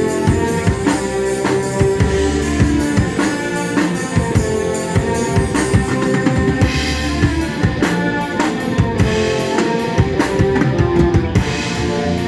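Band playing a song: drum kit with kick and snare keeping a steady beat under sustained keyboard chords and bass.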